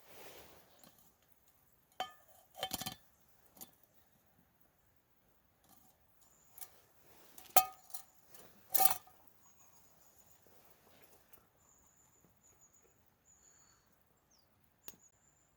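Metal cookware and utensils clinking, several separate ringing clinks a few seconds apart, the loudest two near the middle. Faint short high chirps come in from about halfway.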